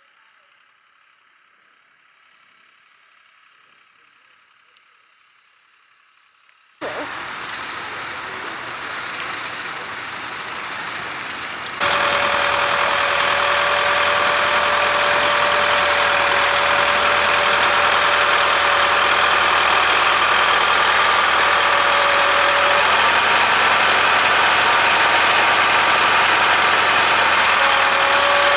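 Tractor engine running. It cuts in suddenly about seven seconds in and gets abruptly louder about five seconds later, with a steady whine over the engine noise.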